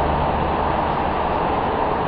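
Double Stadler GTW 2/6 diesel railbus set pulling away, its engines and running gear making a steady rumble that grows slightly fainter as it draws off.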